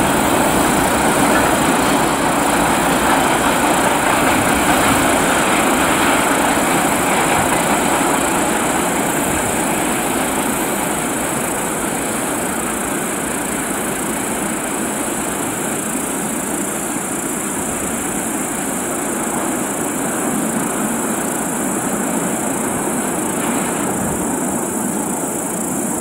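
Freight train of tank wagons rolling away on the rails, a steady rumble of wheels on track that slowly fades as the end of the train recedes.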